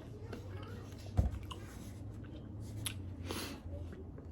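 Close-miked eating and handling of lemon pepper chicken wings, with small clicks and mouth sounds. A dull thump about a second in is the loudest sound, and a short crunchy rustle comes a little past three seconds.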